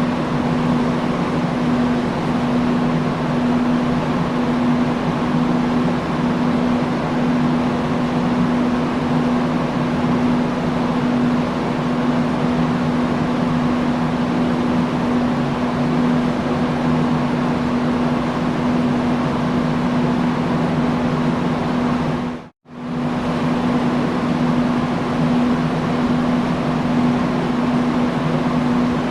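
Industrial fan running steadily: an even rush of moving air over a constant low hum. The sound drops out for a split second about 22 seconds in, then resumes unchanged.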